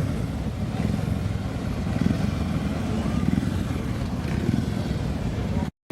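A vehicle engine running steadily at a constant level, with no rise or fall in revs. It cuts off abruptly near the end.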